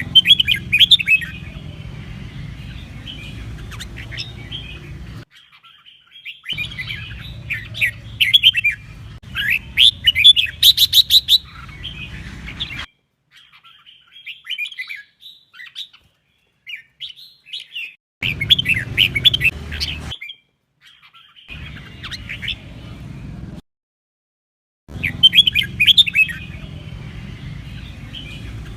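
Red-whiskered bulbul song: short, quick, warbled phrases repeated over a low background hum, in several spliced segments that start and stop abruptly with silent gaps between them.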